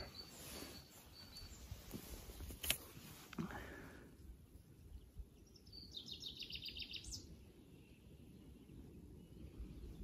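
A songbird sings one short, fast trill that falls in pitch, about six seconds in, over a low steady background rush. A single sharp click comes near three seconds in.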